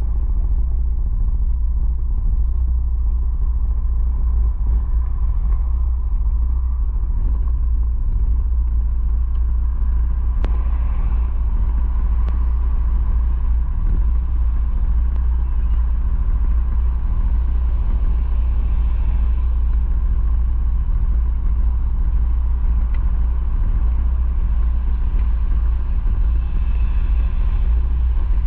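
Motorcycle engine running steadily, a constant low rumble.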